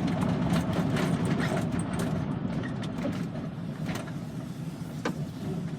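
Van running on the road, heard from inside the cabin: a steady engine and road rumble, with a few light clicks or rattles.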